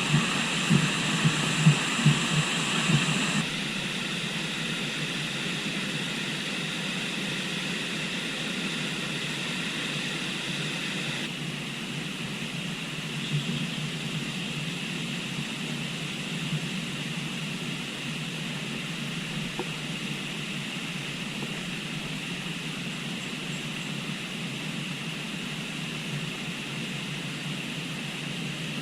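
Steady rushing of a flowing river. A few loud knocks sound in the first three seconds.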